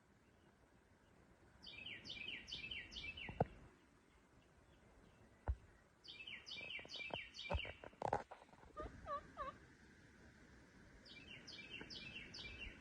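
A songbird singing the same short phrase of four or five quick, high, descending notes three times, about four seconds apart. A few sharp knocks sound in between, and near the middle there is a brief run of lower, softer bird calls.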